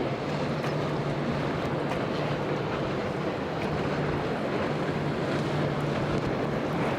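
Motorboat engines droning steadily, a low held hum over the noise of wind on the microphone and moving water.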